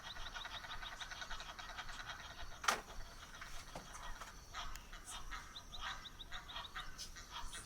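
Wetland animal calls: a rapid, evenly pulsed trilling call, then scattered short chirps. A single sharp click about two and a half seconds in is the loudest sound.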